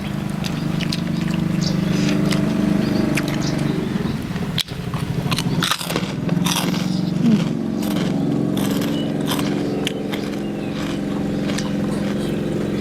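Close-up eating sounds: a person chewing and biting food, with many short crunchy clicks, over a steady low hum.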